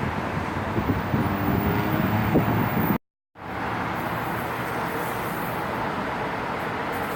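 Steady rumble of passing traffic, with a few faint ringing tones and small knocks in the first three seconds. The sound cuts out completely for a moment about three seconds in, then a steady, even noise carries on.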